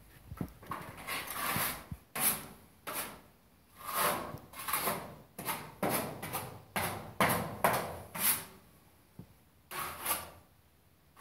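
Plastering tool scraping stiff gypsum plaster along a stair edge in a dozen or so short strokes, uneven in rhythm, with a brief pause near the end.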